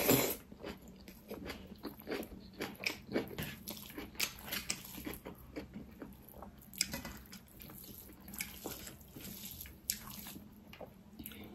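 Close-up chewing and lip-smacking of a mouthful of rice, mustard greens and pickled pork trotter, a string of irregular wet clicks and smacks, loudest as the mouthful goes in at the start.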